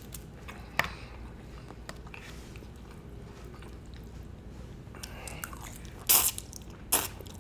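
Close-miked eating: a person biting and chewing food, with a sharp bite or mouth click about a second in and a few more near the end, over a low steady hum.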